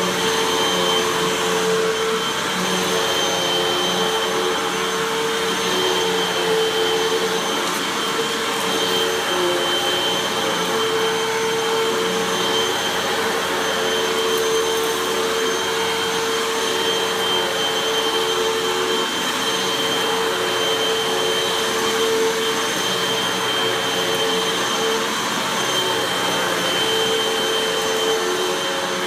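Hoover WindTunnel 2 Rewind Pet upright vacuum running steadily over carpet, its motor giving a steady hum with a high whine above the rush of air.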